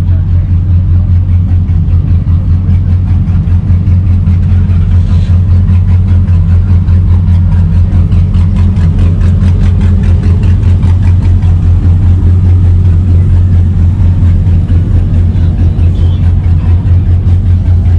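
A vehicle engine idling loudly: a steady deep running sound with an even, rapid pulse.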